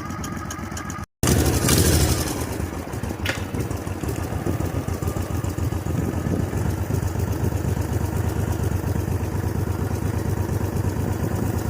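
18 hp V-twin minibike engine idling steadily as it warms up after a cold start. The sound drops out abruptly for a moment about a second in, then the engine carries on running.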